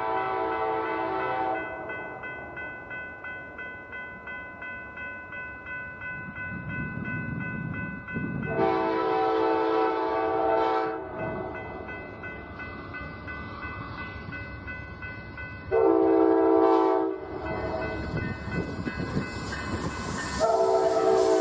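Amtrak diesel locomotive horn sounding the grade-crossing signal: long, long, short, then a final long blast that is still going at the end. Between the blasts a crossing bell rings at about two strokes a second, and the train's rumble grows as it closes in.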